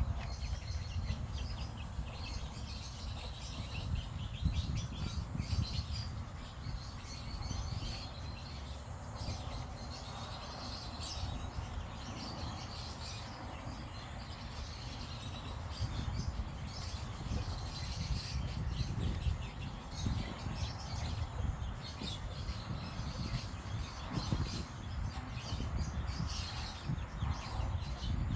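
Baby chicks peeping: many short, high chirps repeating throughout, over a steady low rumble.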